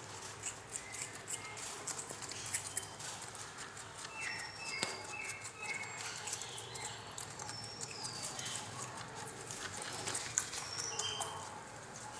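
Rabbits chewing pieces of tomato: a quick, irregular run of small crisp clicks. Birds chirp in the background a few times, with short falling whistles.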